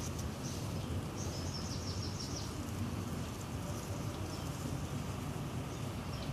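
Steady low background rumble, with a run of faint high chirps in the first couple of seconds and a few more scattered later.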